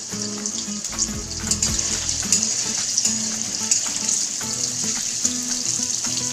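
Paneer cubes frying in hot oil in a metal kadhai: a steady sizzle, with short clinks and scrapes of a metal spatula against the pan as the cubes are stirred.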